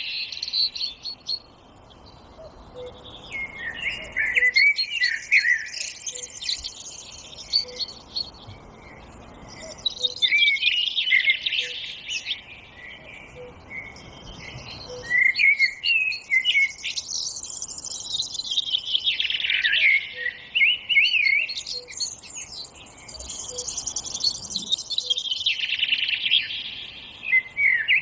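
Songbirds singing: several overlapping birds in long runs of rapid, high chirps and trills that swell and fade every few seconds. A faint short low note repeats about every second and a half beneath them.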